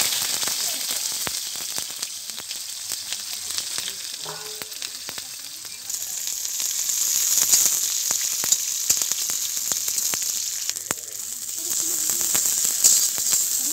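Sliced onions sizzling and crackling in hot oil in a large metal kadai, stirred with a metal spatula. The sizzle grows louder about six seconds in.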